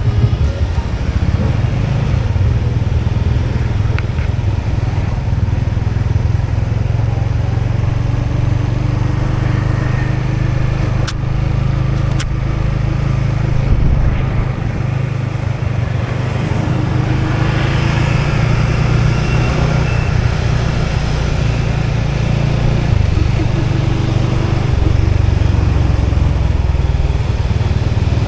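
Motorbike running at a steady riding pace, its engine and road noise continuous, with two brief sharp clicks around the middle.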